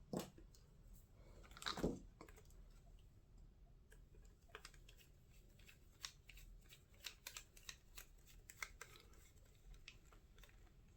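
Faint, scattered clicks and taps of a small hex driver and screws being handled on an RC truck's metal chassis while the motor mount screws are fastened, with two louder knocks in the first two seconds and a run of light ticks later on.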